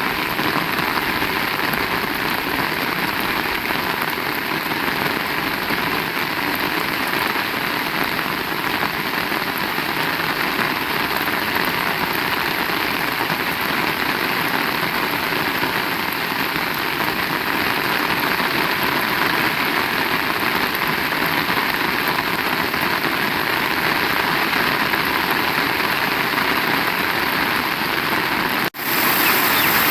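Heavy rain falling, a dense, steady hiss of drops on surfaces. Near the end the sound cuts out for an instant and comes back a little louder.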